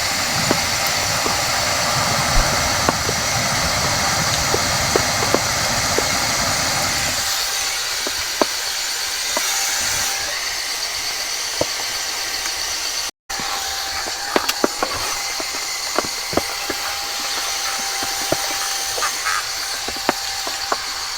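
Rain dripping in a forest, with scattered sharp drops ticking on fallen leaves over a steady hiss and a continuous high insect drone. A low rumble underneath stops about seven seconds in.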